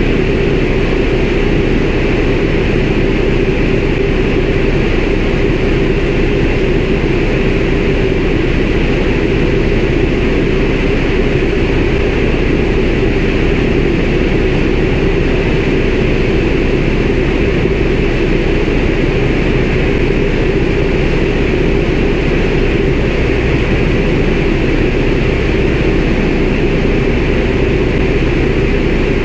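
Steady, loud drone of a CAC Winjeel's nine-cylinder Pratt & Whitney R-985 radial engine and propeller in cruise, heard from inside the cockpit.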